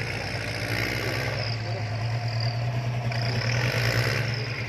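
Tractor's diesel engine running steadily at constant speed, a little louder in the second half.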